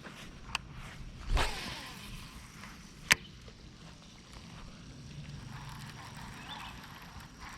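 A fishing rod swishing through the air in a cast, followed about a second and a half later by a single sharp click.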